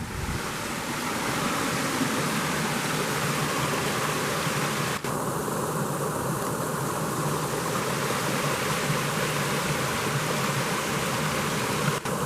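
Waterfall rushing: a steady, even noise of falling water, broken off for an instant about five seconds in and again near the end.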